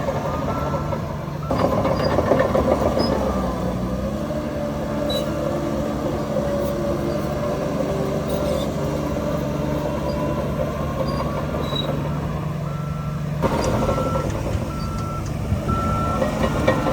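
Heavy diesel earthmoving machinery running, with a reversing alarm beeping at a steady pace, about one beep a second, near the start and again near the end. In between, a louder, rougher stretch of machine noise.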